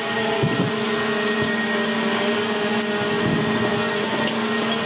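DJI Mavic Air 2 drone hovering, its motors and propellers giving a steady multi-toned whine over the hiss of falling rain.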